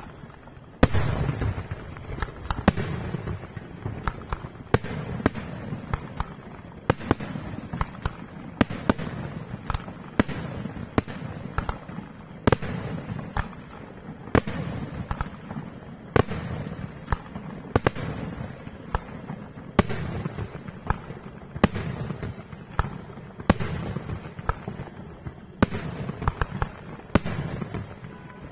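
Aerial firework shells bursting in a professional display: a sharp bang about every two seconds, with smaller pops between them over a continuous low rumble.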